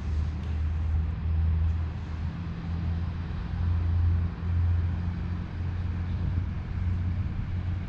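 Low engine rumble of a motor vehicle in street traffic, swelling and easing a little over a steady background hiss of the street.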